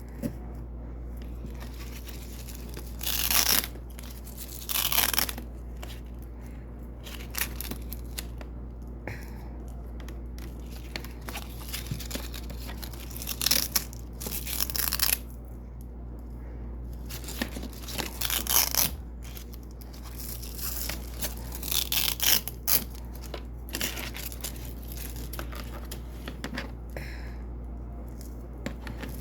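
Double-sided hook-and-loop (velcro) strips being pulled apart in a series of short, crunchy rips, irregularly spaced, over a steady low hum.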